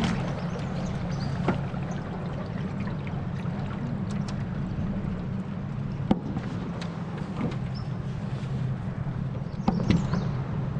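A small boat's outboard motor running steadily under way, a low even hum with water noise, and a few sharp knocks against the boat.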